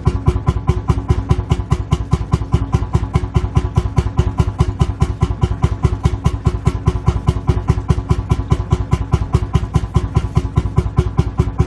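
Lanz Bulldog tractor's single-cylinder two-stroke hot-bulb engine idling, with an even, loud beat of about seven firing pulses a second.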